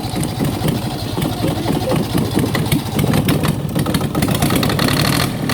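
Yanmar 3GM30 three-cylinder marine diesel engine starting and running, getting louder about three seconds in.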